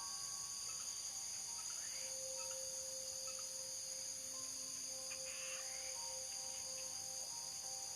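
Steady high-pitched chorus of crickets and other night insects, with a faint thin mid-pitched hum that comes and goes.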